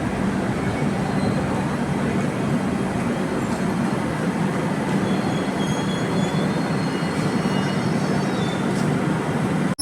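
A train running along the rails close by, a steady dense noise of wheels and cars on the track. Faint high-pitched wheel squeals come in over the second half.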